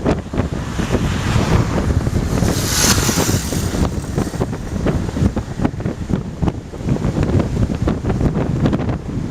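Typhoon wind buffeting the microphone in heavy, uneven gusts, with a brief louder hiss about three seconds in.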